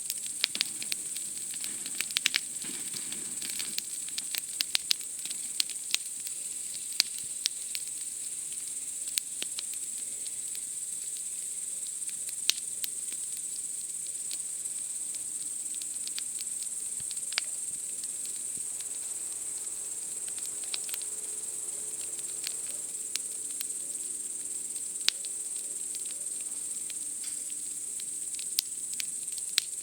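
Campfire crackling with irregular sharp pops, over a steady high-pitched chorus of night insects.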